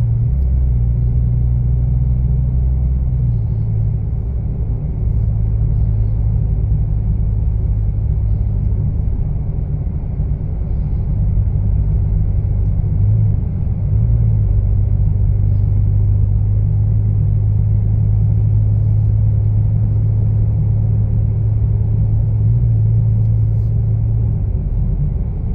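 2025 Ford Explorer Active's 2.3 EcoBoost four-cylinder driving at a steady pace, heard from inside the cabin: a steady low exhaust drone through a pair of Jones Full Boar mufflers with the centre resonator deleted. The tone shifts a little about three seconds in and again briefly around thirteen seconds.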